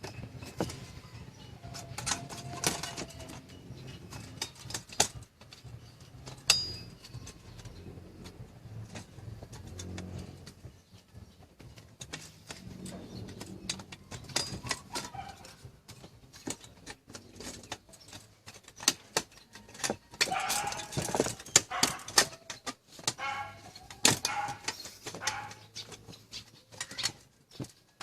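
Irregular clicks, taps and light metallic clatter of small parts and tools being handled on a toaster, with a steady low hum underneath.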